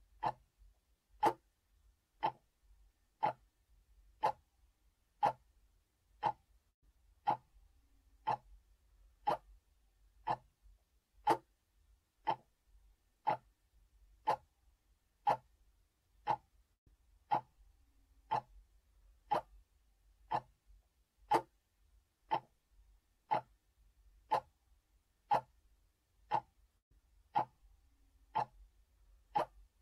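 A clock ticking steadily, about two ticks a second, alternating louder and softer in a tick-tock pattern.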